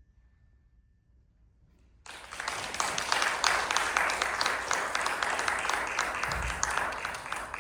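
Audience applauding: after about two seconds of near quiet, dense clapping breaks out suddenly and carries on steadily, then cuts off abruptly near the end.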